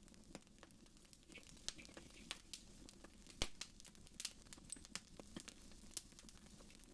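Fire in a fireplace crackling: faint, irregular snaps and pops, the loudest about three and a half seconds in.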